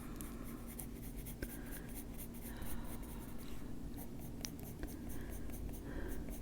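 Colored pencil shading on paper: faint, repeated scratching strokes of a Faber-Castell Polychromos pencil.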